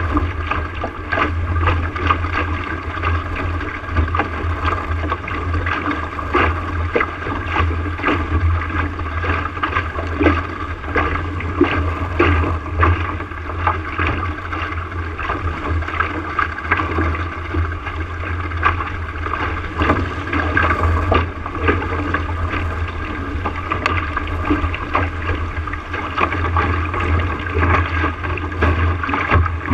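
Water splashing and slapping against a small sailboat's hull under way, in many short irregular splashes over a steady low rumble.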